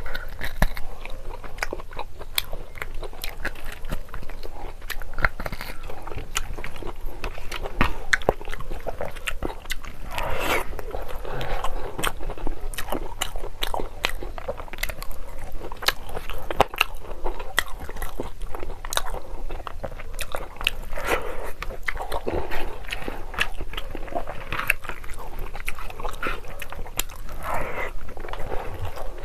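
A person chewing and biting mouthfuls of mutton curry and rice close to the microphone: continuous wet chewing with many sharp mouth clicks.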